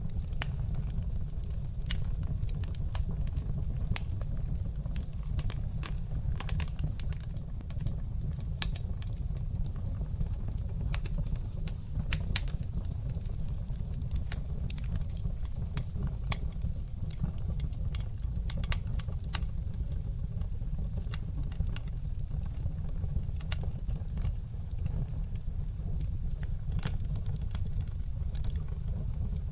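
Wood fire burning in a fireplace: a steady low rumble of flames with many sharp crackles and pops scattered irregularly throughout.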